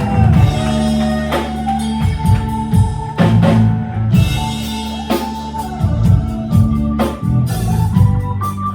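Live blues band playing a slow instrumental passage: drum kit with a strong stroke about every two seconds, over held bass notes and sustained guitar or organ tones.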